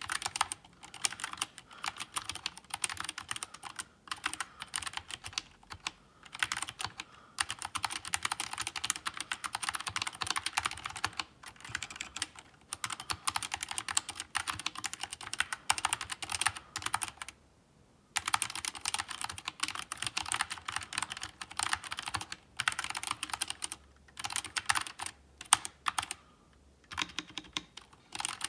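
Fast typing on the Nature ergonomic mechanical keyboard, with Gateron optical switches and OEM-profile two-shot ABS keycaps: a dense stream of key clicks. It pauses briefly about seventeen seconds in and again near the end.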